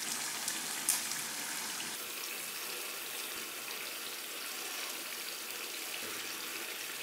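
Pepper-and-onion stew base frying in a pot, a steady even sizzle, with a single light click about a second in.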